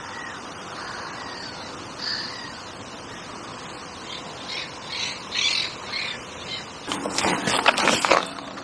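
Birds calling, with a quick run of high calls about four to six seconds in, then a loud, harsh, rough burst lasting just over a second near the end.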